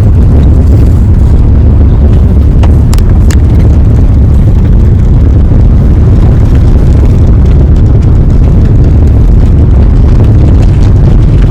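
Loud, steady low rumble of a car driving over a potholed road, with a few sharp knocks about three seconds in.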